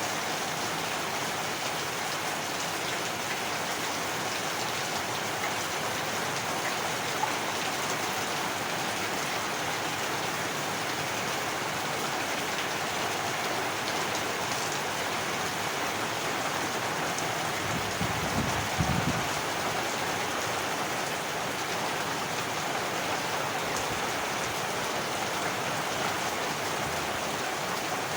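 Heavy rain falling steadily as a dense, even hiss. About two-thirds of the way through there is a brief low thump.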